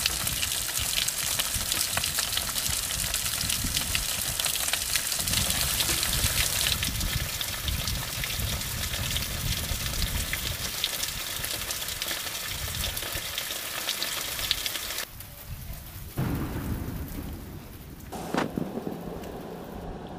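Heavy rain falling on garden plants and a wet flagstone path, a dense steady hiss with a low rumble underneath. About fifteen seconds in it turns quieter and thinner: rain on a wet stone patio, with single drops splashing close by.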